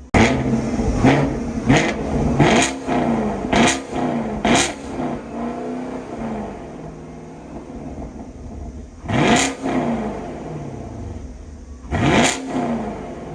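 Chevrolet Camaro SS 6.2-litre V8 exhaust as the engine is free-revved standing still: six quick sharp throttle blips in the first five seconds, each falling back toward idle, then two more single blips later, with the engine idling between.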